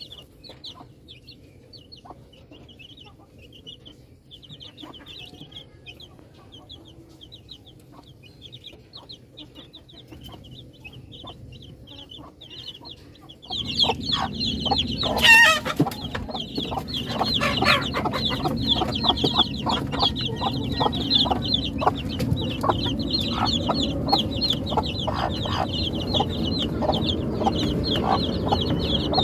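Baby chicks peeping: many quick, high calls overlapping without a break. About halfway through, the sound suddenly gets louder and fuller, and a single louder call comes a couple of seconds after that.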